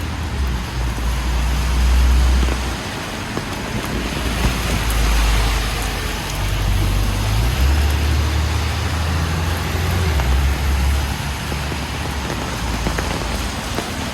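Traffic on a wet city street in the rain: a steady hiss of rain and tyres on wet road, with a deep rumble from passing vehicles that swells and eases several times.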